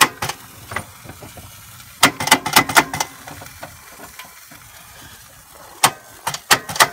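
Two bursts of sharp, rapid clicks and clunks, one about two seconds in and another near the end, as the 2006 Kia Rio's engine is tried with the key and does not turn over. The engine seems to have seized after throwing a rod.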